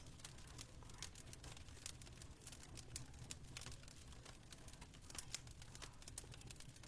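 Fireplace fire crackling: faint, irregular sharp pops and snaps over a low steady rumble.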